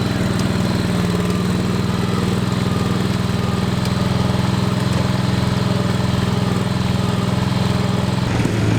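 Modified mud-bogging lawn tractor's engine running at a steady pitch, the note changing and turning rougher near the end.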